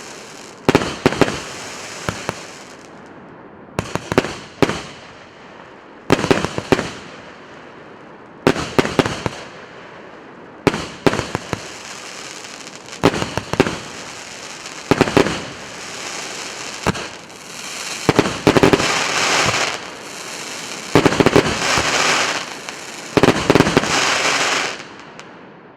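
A 1.2-inch, 88-shot consumer firework cake firing in volleys: clusters of sharp launch shots about every two seconds, each followed by bursting and crackling. In the last few volleys the crackling is denser and lasts longer, then the sound dies away near the end.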